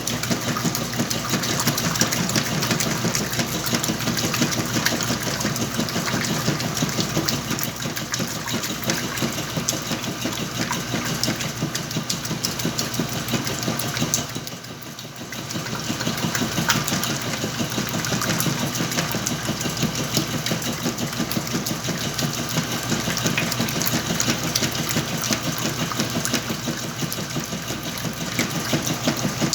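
Whirlpool washing machine running its wash cycle on a load of blankets, a steady mechanical run that drops briefly about halfway through.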